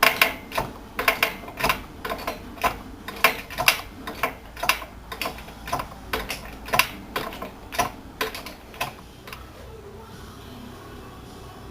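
Sharp mechanical clicks and clacks of tool work, irregular at about two to three a second, which stop near the end, leaving a low steady hum.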